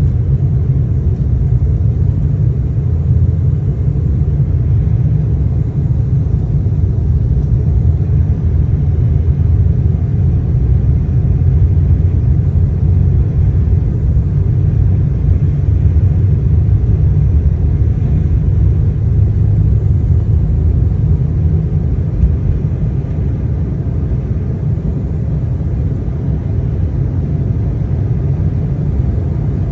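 Embraer E175 jet airliner, heard as a loud, steady low rumble of engines and airframe that barely changes over the half minute.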